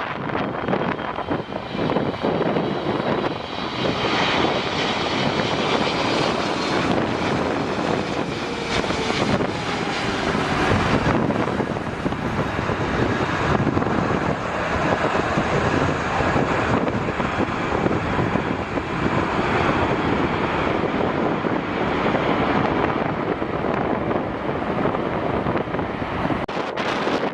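Jet airliner passing: a steady, loud rush of engine noise with a few faint falling whines.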